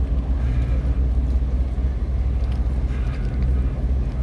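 Towboat's diesel engine running steadily with a low, even drone, towing a cargo barge upstream against the current.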